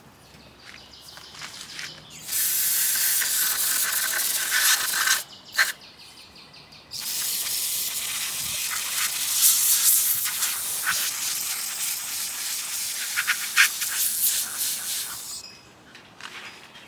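Aerosol can of carburetor cleaner spraying in two long bursts, one of about three seconds and one of about eight seconds, as the can runs empty.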